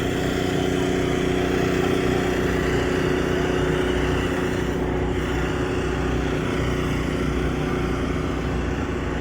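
A small engine running steadily at a constant speed, giving a continuous hum.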